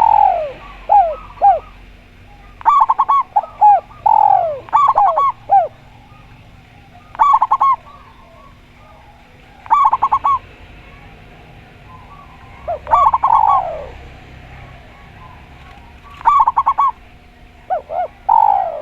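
Spotted dove and zebra dove cooing in turn: quick rippling coos and longer falling coos, repeated in phrases every two to three seconds.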